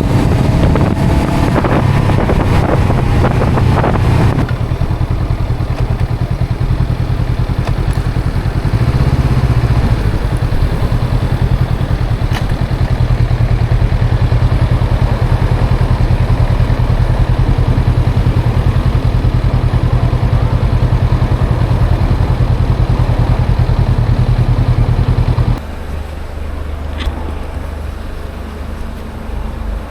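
Honda CL500's parallel-twin engine and exhaust running under way, busier in the first few seconds and then a steady note; about 25 seconds in it drops suddenly to a lower, quieter note.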